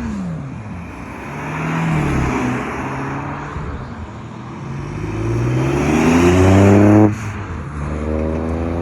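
Car engines revving as cars accelerate away. The pitch rises steadily to the loudest rev about seven seconds in, which cuts off suddenly before another engine starts climbing again near the end.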